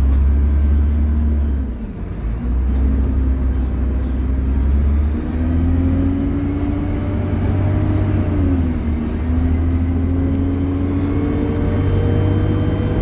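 Dennis Trident double-decker bus accelerating, its engine working hard under a heavy low drone. A pitched whine climbs, drops briefly at a gear change about eight seconds in, then climbs again.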